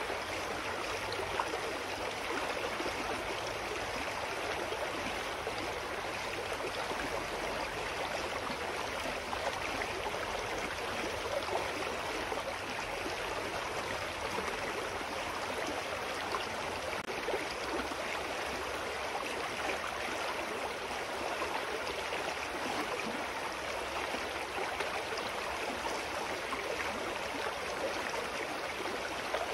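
Clear mountain stream flowing over rocks, a steady rushing and babbling of water.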